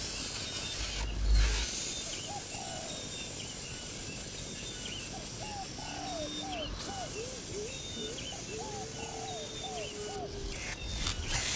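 A young bird calling: a run of short, hooked chirps repeated a few times a second, with one longer level note partway through. A low thump about a second in.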